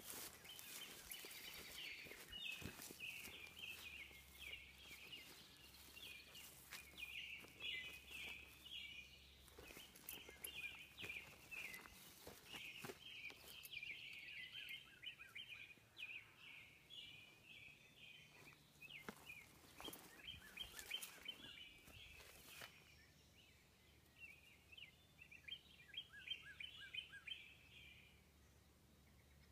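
Faint outdoor birdsong: many short, high chirps repeating in quick clusters, with a few scattered clicks.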